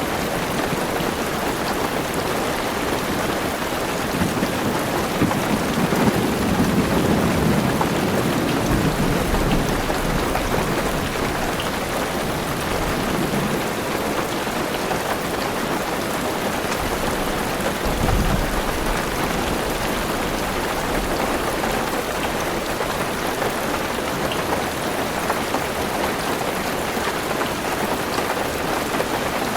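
Heavy rain falling on a car roof, a dense steady patter. A low rumble of thunder swells about five seconds in and fades over several seconds, and a short low rumble comes just past the middle.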